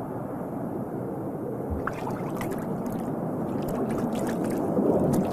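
Muffled churning water, with scattered small clicks and pops starting about two seconds in.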